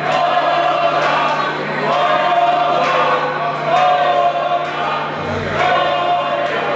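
A group of voices singing together in repeated drawn-out phrases, over a steady low electrical hum.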